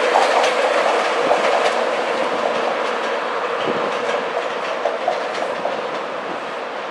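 Express passenger train running away into the distance, its wheels clicking over rail joints while the rumble fades steadily.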